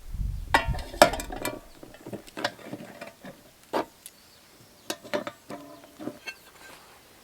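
Irregular clicks, knocks and light clatter of small hard objects being handled, some with a short ring, densest in the first second and a half.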